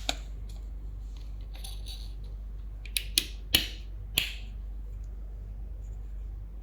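Small hard parts being handled: faint scraping and rustling, then four sharp clicks and light knocks between about three and four and a half seconds in.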